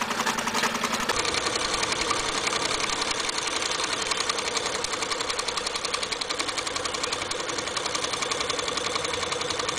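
Prototype free-piston Stirling engine running with a rapid, steady mechanical clatter as its displacer and power piston shuttle back and forth. It keeps running after its heat source has been turned off, with ice put on it.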